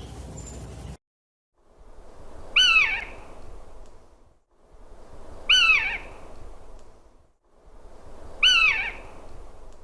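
A bird of prey calling: a short, high screech that bends up and then down, repeated three times about three seconds apart over faint background hiss.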